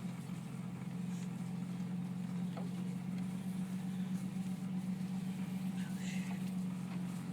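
Pickup truck engine running at low speed, a steady low hum heard from inside the cab.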